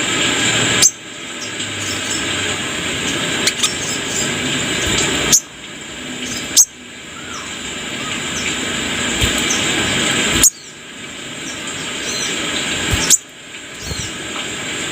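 Brown-throated sunbird (kolibri kelapa) giving short high chirps, almost buried under a loud steady hiss of background noise. The hiss cuts out with a sharp click and builds back up several times, like a looped, spliced recording.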